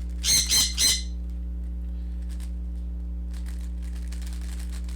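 A bird squawking three times in quick succession, sharp high-pitched calls, over a steady low hum.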